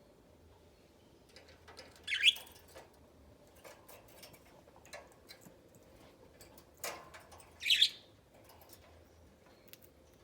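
Budgerigars in a cage: two short, loud chirps about five and a half seconds apart, each a quick upward sweep in pitch, with light scattered clicks and taps in between.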